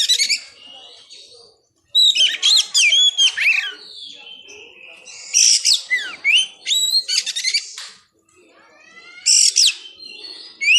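Oriental magpie-robin (kacer) singing: loud phrases of clear gliding whistles and rapid chattering notes, coming in bursts about every three to four seconds with quieter warbling between.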